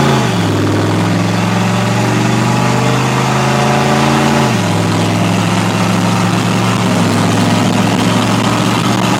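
Straight-piped 6.5L turbo diesel V8 of a 1995 Chevy Silverado 2500 running under way at fairly steady engine speed, its note dropping in pitch just after the start and again about four and a half seconds in, like gear shifts.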